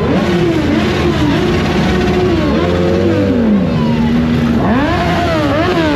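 Motorcycle engines revving hard, their pitch climbing and dropping again and again, with more than one bike going at once.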